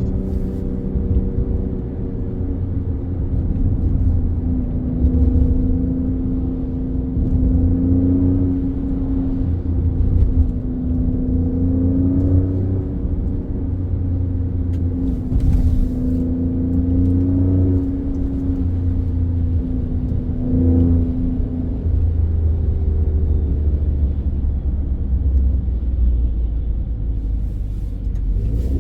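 Alfa Romeo Stelvio Quadrifoglio's 2.9-litre twin-turbo V6, with K&N air filters fitted, running under way with a deep rumble. Its note rises and falls gently and changes pitch about three-quarters of the way through.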